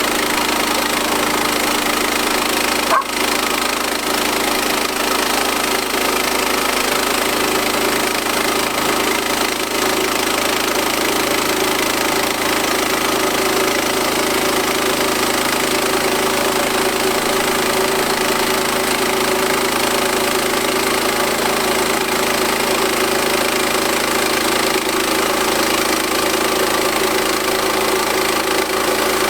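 Frontier portable bandsaw mill running steadily, its engine driving the band blade. There is one sharp click about three seconds in.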